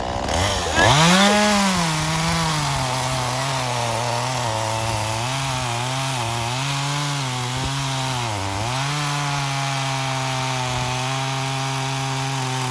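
Chainsaw cutting through wood at full throttle. Its pitch rises sharply about a second in, then holds with small dips as the chain bites, and sags once briefly under load before recovering.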